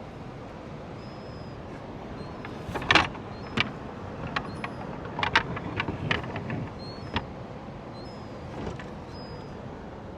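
Light knocks, clicks and clatters of camp cooking gear being handled, scattered irregularly and loudest about three seconds in, over a steady rushing background of wind.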